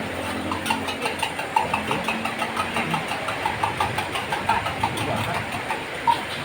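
Metal spatula striking and scraping a wok as fried rice is tossed, in rapid even clinks of about four a second over a steady hiss, with one sharper clang near the end.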